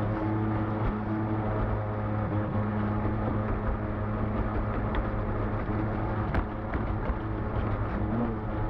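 Vintage brushed-motor electric RC boat running across the water: a steady motor hum over rushing water noise.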